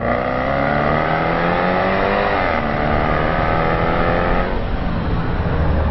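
Range Rover Sport engine accelerating hard, its pitch climbing, dropping at an upshift about two and a half seconds in, then climbing again before easing off near the end.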